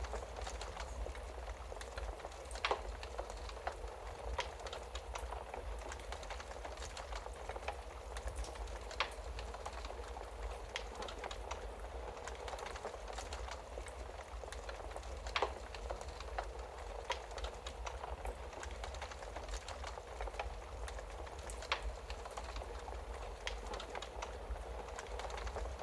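Wood fire burning in a fireplace: a steady hiss with irregular small crackles and a few louder sharp pops.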